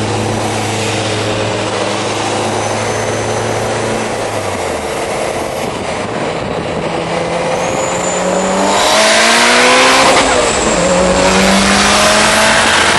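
Car engine running at steady cruise, easing off about four seconds in. It then accelerates hard from about seven seconds in, pitch climbing, with a gear change just after ten seconds before it climbs again.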